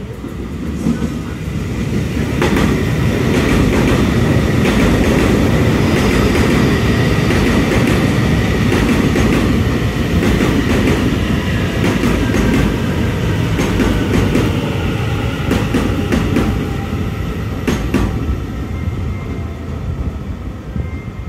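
A train running on rails: a loud rumble that builds over the first couple of seconds and eases near the end, with clacks of the wheels over rail joints and a thin steady high whine.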